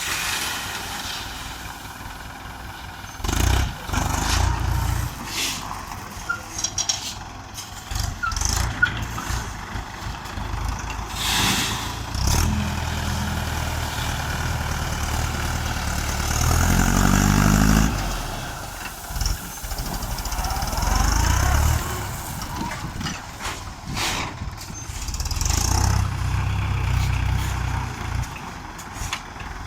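Mahindra DI 475 tractor's diesel engine running, swelling loud several times and revving up with a rising pitch about midway, while working its front bull attachment. Occasional sharp clanks and knocks come through between the engine surges.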